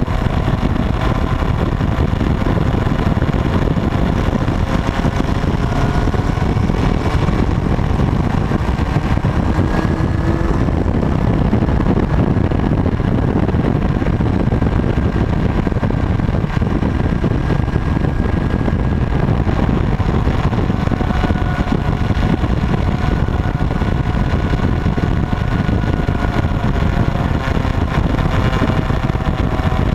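Motorcycle engine running steadily under a heavy, continuous low rumble, with faint tones that drift slowly in pitch: steady riding noise with wind on the microphone.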